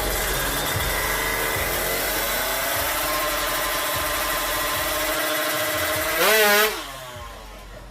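Tuned Kawasaki Ninja 300 cc motorcycle engine running hard, its pitch falling and then holding steady. About six seconds in there is a quick, louder rise and fall in revs, after which the sound drops away.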